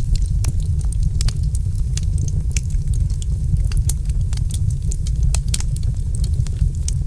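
Wood fire crackling: frequent irregular sharp pops and snaps over a steady low rumble of the flames.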